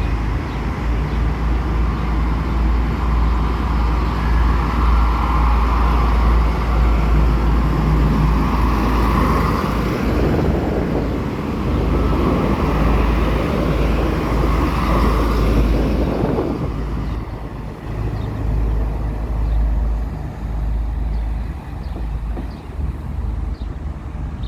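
A train running past, with a heavy, steady low rumble and a rushing noise that swells in the middle and eases a little about two-thirds of the way through.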